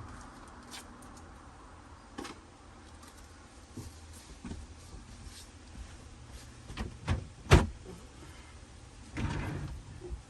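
A few separate knocks and clatters from camper-van kitchen drawers and cupboards being opened and emptied of cutlery and crockery. The loudest knock comes about seven and a half seconds in, and a rougher clatter follows near the end.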